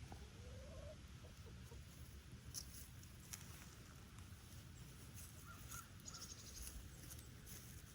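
Faint outdoor quiet: a low steady rumble of wind, with a short rising bird call at the start and a few faint, high bird chirps later on.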